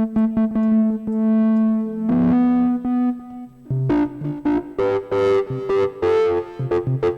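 Synthesized vintage organ patch with drive distortion, played on a keyboard: a held note with clicky key attacks, then a run of short rhythmic notes and chords.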